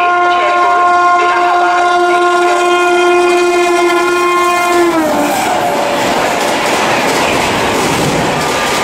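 Electric locomotive of an Indian Railways express sounding one long horn blast on its approach. About five seconds in the horn's pitch drops as the locomotive passes close by, and the loud rush and clickety-clack of the coaches speeding past follows.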